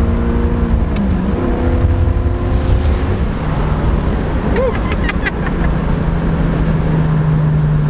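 Chevrolet 350 small-block V8 crate engine in a 1981 Camaro Z28 running hard under throttle. Its note dips about a second in and picks up again, then holds steady.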